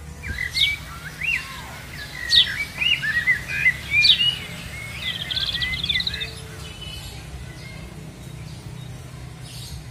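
A bird singing: a run of short whistled chirps and sharp falling notes, ending in a fast trill about six seconds in, over a steady low background hum.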